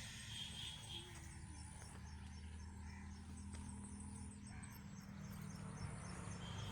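Outdoor ambience with an insect chirping high and fast at an even pace, about five chirps a second, over a low steady hum.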